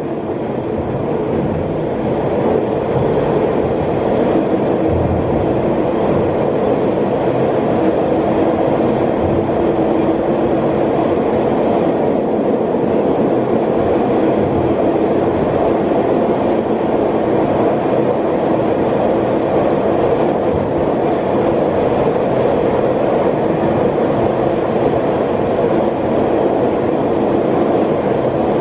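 Matterhorn Gotthard Bahn train running steadily along the rails, heard from its open-air viewing car inside a concrete avalanche gallery. There is a continuous rumble of wheels on track with a faint held tone. The sound fades up in the first second, then stays level.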